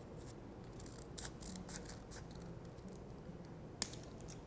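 Scissors snipping a sheet of paper: a run of faint snips, then one sharper click near the end.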